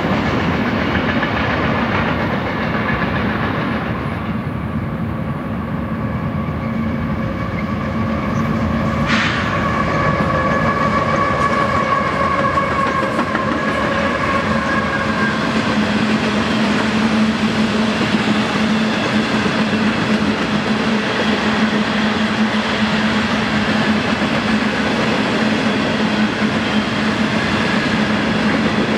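Freight train cars rolling past on steel rails, ending in a long string of empty coal cars: a steady rumble with clickety-clack from the wheels. About nine seconds in, a high ringing tone joins and fades out some six seconds later.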